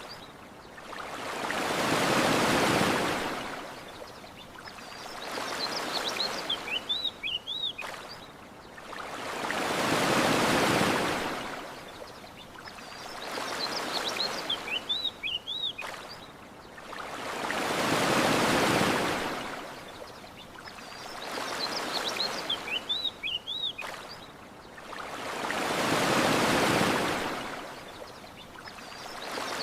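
Ocean waves washing onto a shore in slow surges, a big swell about every eight seconds with a smaller one between. A short run of high bird chirps comes as each wave ebbs, and the whole pattern repeats evenly.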